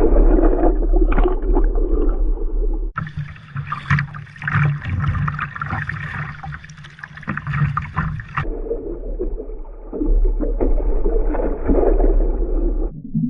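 Strong wind buffeting the microphone with a heavy low rumble, mixed with water splashing around a sit-on-top kayak at sea. The sound changes abruptly about three seconds in, to many short sharp splashes over a steady low hum, and changes back near the end.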